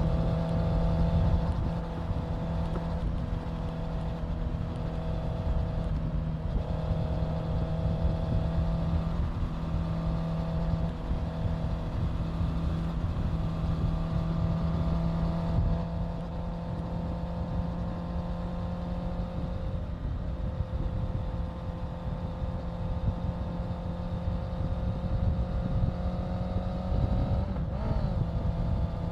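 Honda CBR650F's inline-four engine running at a steady cruise on the road, its pitch easing down slowly and then climbing back, over a low rumble of wind on the microphone.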